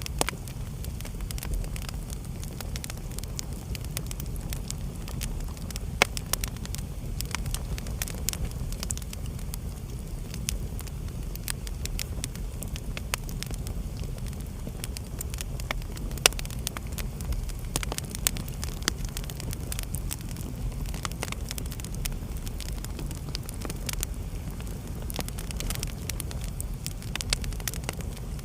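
Wood fire burning in a fireplace: a steady low rumble of the flames with frequent sharp crackles and pops, two louder pops about 6 and 16 seconds in.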